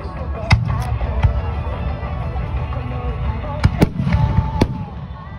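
Aerial fireworks bursting: several sharp bangs, a pair near the start and a cluster about two-thirds through, over a continuous low rumble of more distant shells, with music playing from loudspeakers underneath.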